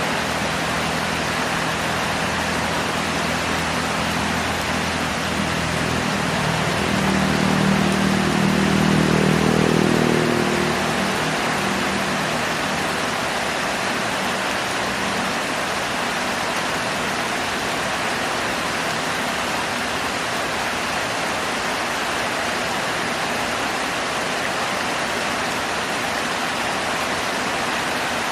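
Heavy rain falling steadily. Under it, the hum of a motor vehicle's engine grows louder up to about ten seconds in and then fades away, as a vehicle passes.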